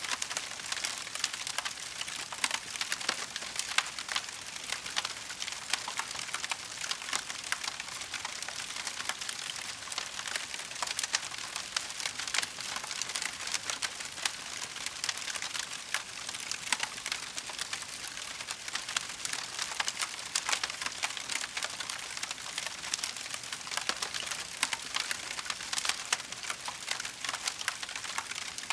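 Wood fire burning in a fireplace, crackling steadily with dense small pops and snaps.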